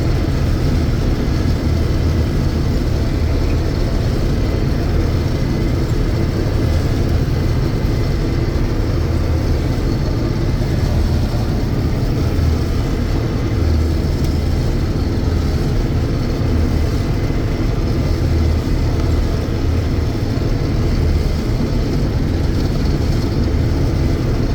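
John Deere 6620 Turbo combine running steadily under load while cutting beans: a continuous low engine drone with the threshing machinery running alongside.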